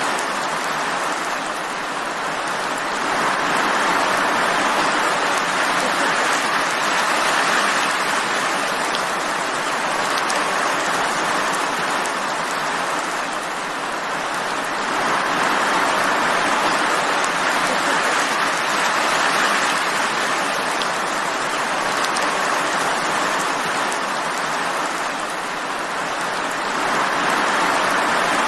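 Steady heavy rain falling, a dense even hiss that swells and eases gently every several seconds.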